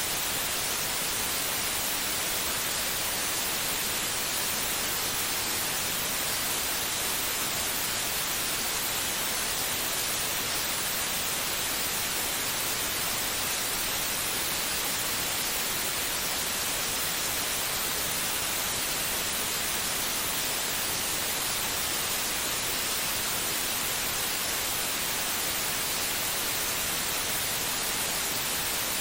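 Steady white noise: an even, unchanging hiss, brightest in the treble, played as a sleep sound for a baby.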